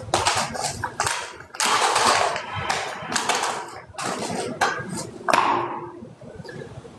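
Irregular scrapes and knocks of manual construction work, roughly one every second, some short and sharp, others drawn out over half a second.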